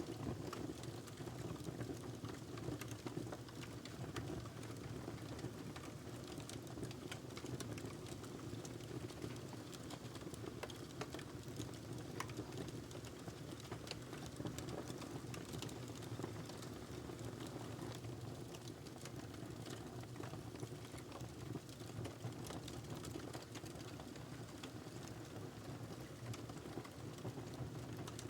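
Wood fire crackling in a fireplace: a steady low rush of the flames with many small, sharp pops and crackles scattered throughout.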